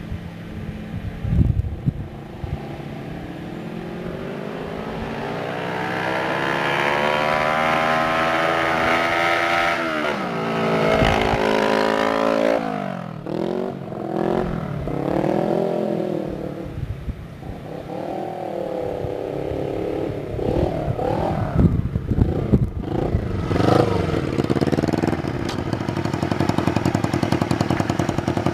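Honda CB125TT's parallel-twin engine running loud through chopped open header pipes. It pulls up steadily in pitch for several seconds, drops sharply, goes through a run of rises and falls, and settles into a steady low run near the end. The owner thinks the carburettor mixtures need adjusting.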